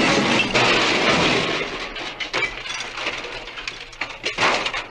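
Crash sound effect of a small engine and its trucks derailing and overturning: a loud smash of breaking wood and debris that dies away into scattered clattering, with a second burst near the end.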